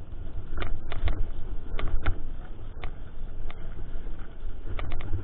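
Mountain bike rattling over a rough trail, heard through a helmet or bike-mounted GoPro: a continuous low rumble with about ten sharp clicks and knocks from the bike scattered throughout.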